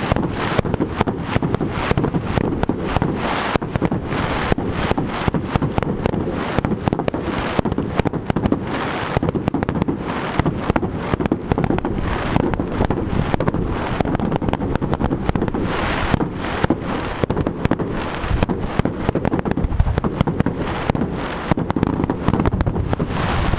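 Fireworks display going off: a dense, continuous barrage of rapid bangs and crackling with no let-up, with wind buffeting the microphone.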